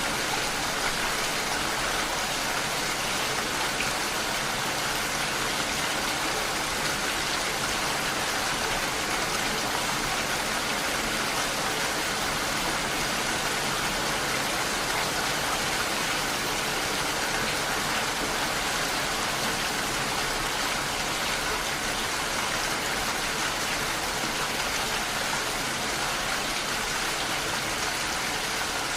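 Rain falling on window glass, a steady, even hiss with no breaks.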